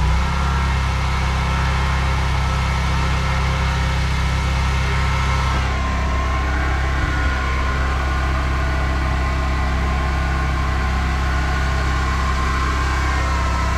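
Gas-engine pressure washer running steadily, with a hiss of water spray over the engine. The high part of the hiss thins a little about six seconds in.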